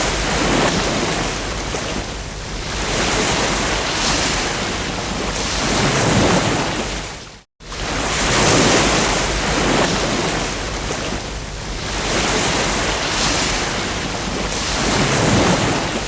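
Ocean surf: waves breaking and washing up the beach in slow swells of rushing noise. About halfway through the sound cuts out for a moment and comes straight back, like a loop seam.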